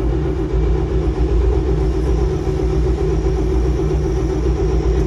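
A 70-year-old truck's engine being cranked over steadily by its new starter motor, without catching. The next call is for a spark tester, so a lack of spark is suspected.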